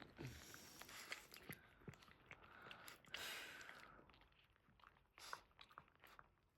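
Faint wet clicking and smacking of newborn Boston terrier puppies suckling at their mother, with a short soft rustle about three seconds in.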